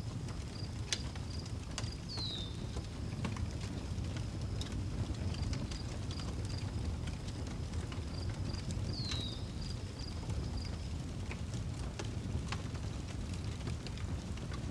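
Outdoor wood fire crackling, with scattered sharp pops over a low steady hiss. A cricket chirps in a fast, even pulse that fades out around eleven seconds in, and a bird gives a short falling note twice, about two seconds in and again about nine seconds in.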